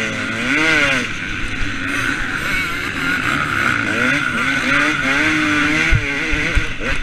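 2013 KTM 250 SX two-stroke motocross bike engine being ridden hard, its pitch rising and falling again and again with throttle and gear changes, over a rush of wind. A couple of short low thumps come near the end.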